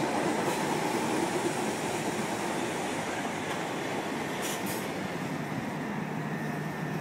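Class 377 Electrostar electric multiple unit moving along the platform: a steady rumble of wheels on track that slowly eases off.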